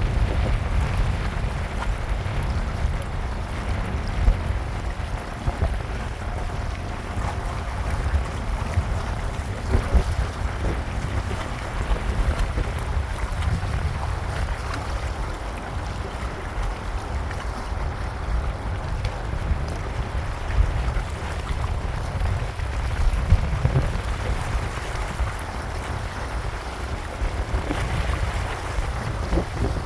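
Wind buffeting the microphone in an uneven low rumble, over a steady hiss of rain.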